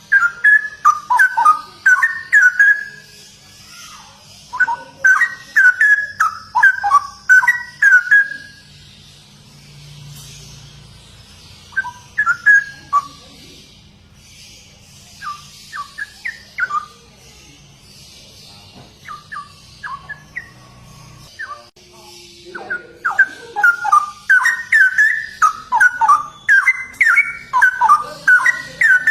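Straw-headed bulbul (cucak rowo) singing: loud phrases of quick, rich fluted notes, delivered in bursts of a few seconds with short pauses between them.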